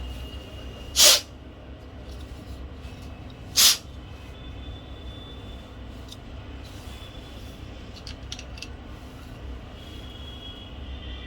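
Two short, loud hissing bursts, about two and a half seconds apart, over a low steady hum, with a few faint small clicks later on.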